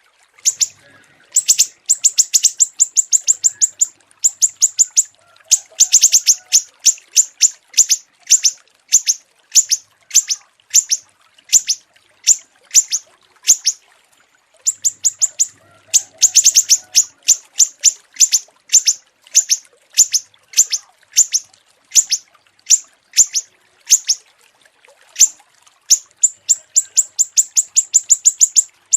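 Small songbird chirping in quick runs of short, high, sharp notes, broken by brief pauses.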